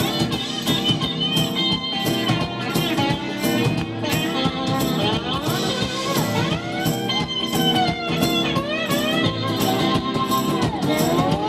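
Live pop-rock band playing an instrumental break between choruses: a lead guitar line with bending, gliding notes over a steady drum beat.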